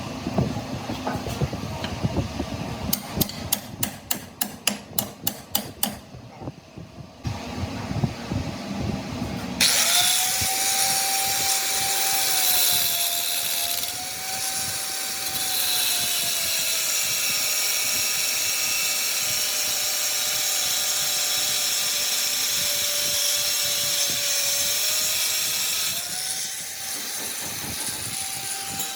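A series of sharp metallic knocks, then an electric power tool starts and runs loud and steady. Its whine sags a little in pitch as it bites into the metal and begins to wind down at the very end.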